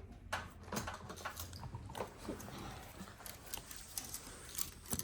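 Irregular clicks, taps and rustling of small objects being handled close to the microphone.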